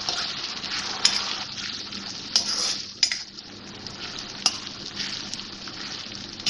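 Chopped onions with ginger-garlic paste and green chillies frying in oil in a karahi: a steady sizzle, with a metal spoon stirring and scraping and knocking sharply against the pan several times.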